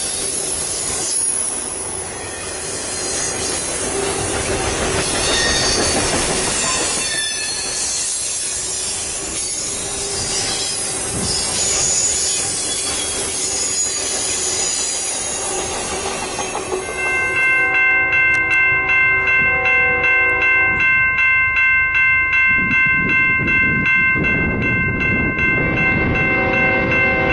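Train rolling past with wheel squeal and rail noise. About 17 seconds in, a train horn sounds along with a steady ringing that pulses about twice a second, running to the end.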